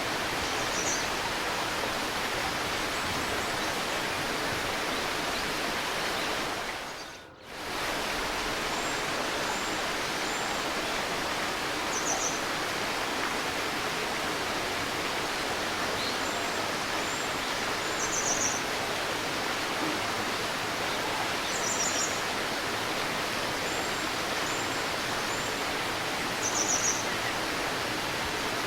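Babbling river flowing steadily, with small birds giving short, high chirps every few seconds. About a quarter of the way through, the sound fades out briefly and comes straight back.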